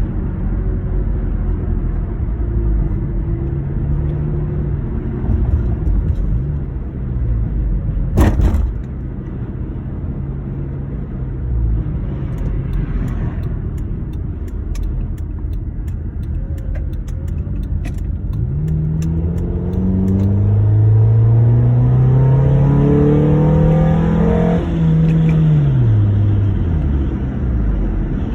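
2009 Honda Accord engine running, which its owner says has an intake and exhaust leak. Partway through, the engine revs up in a rising tone over a few seconds and then drops back down. A single sharp click is heard about eight seconds in.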